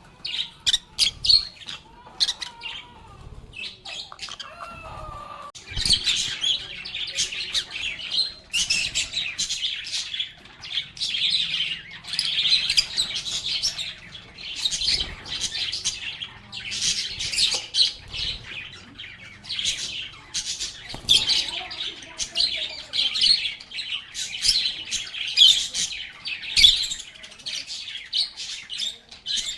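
A group of lovebirds chirping and chattering: rapid, high-pitched calls, sparse for the first few seconds, then dense and nearly continuous from about six seconds in.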